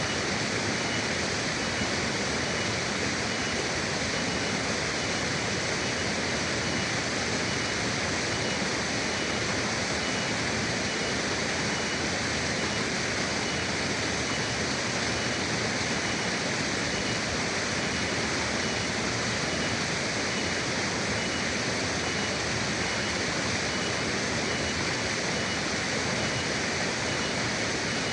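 Forest river flowing, a steady, even rush of water with no changes or separate events.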